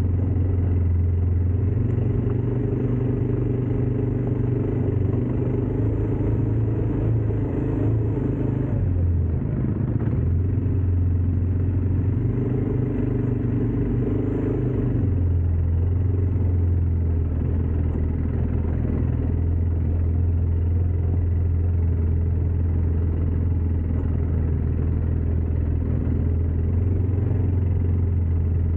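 ATV engine running steadily under way, a low continuous drone whose pitch shifts a little a few times as the throttle changes.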